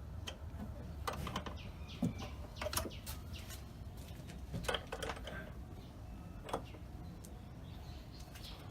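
Scattered sharp clicks and knocks, about a dozen spread unevenly through the first seven seconds, over a steady low hum. They fit hand tools and metal parts being handled at the start of a car battery replacement.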